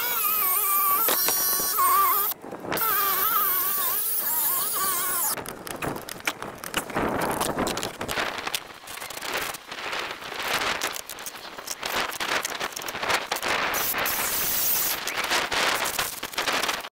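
Power saw cutting wood. For about five seconds the motor's whine wavers in pitch as it is loaded; after that comes a rough, rapid rasping of the blade through the board to the end.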